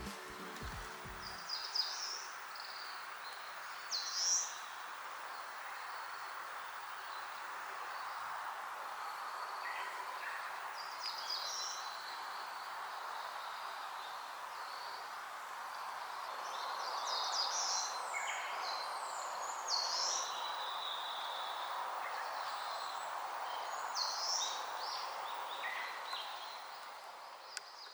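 Wild birds giving short, sharp calls every second or two over a steady rushing background noise.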